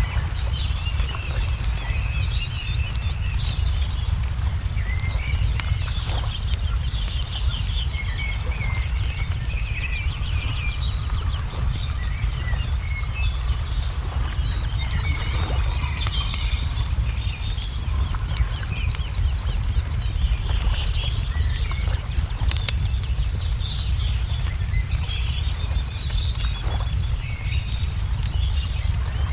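Wood fire crackling with scattered sharp pops over a steady low rumble, while small birds chirp and trill throughout.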